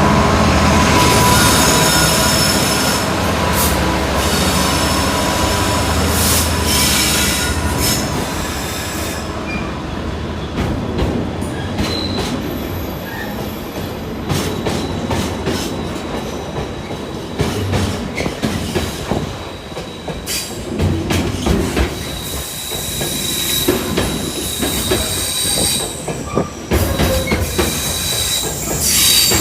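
A Class 66 diesel-electric locomotive's two-stroke V12 engine working hard as it pulls a freight train away, its low drone fading after about eight seconds. The freight wagons then roll past with rhythmic clicking over the rail joints and high wheel squeal that comes and goes, strongest near the end.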